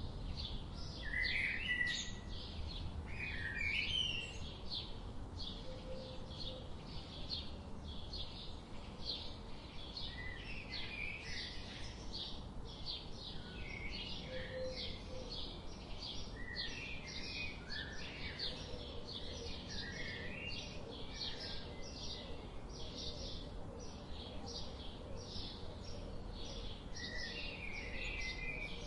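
Songbirds chirping, with short varied phrases scattered through, over a steady rapid high-pitched chipping of several notes a second. A low background rumble runs underneath.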